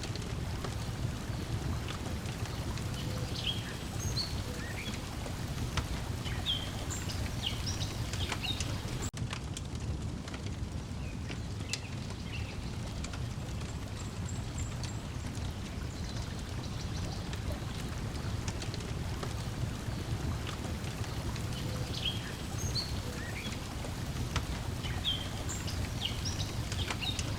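Layered outdoor ambience: lake water lapping at a shore as a steady low wash, a wood fire crackling with scattered sharp pops, and songbirds chirping in short, repeated phrases.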